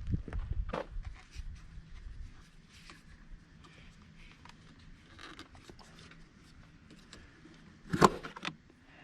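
Handling noises: low thumps at first, then scattered light clicks and scrapes, and one loud sharp knock about eight seconds in.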